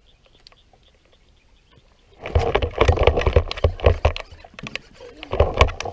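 Irregular knocks, clatter and low thumps on a fishing kayak, starting suddenly about two seconds in after a near-quiet stretch.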